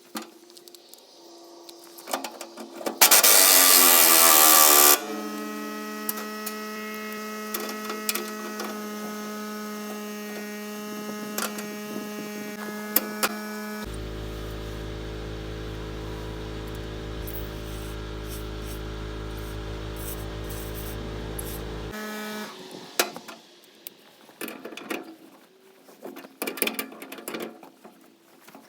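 Impact gun working rusted fuel-tank bolts. A short, very loud burst a few seconds in, then a long steady whir that drops to a lower, rapid buzz about halfway and cuts off. Clicks and knocks of metal handling follow.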